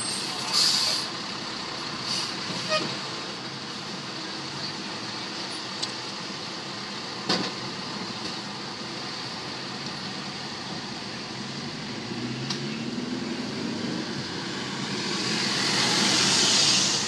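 Road traffic noise: a steady hum of passing vehicles, with a few short knocks and one vehicle swelling to its loudest near the end, then fading.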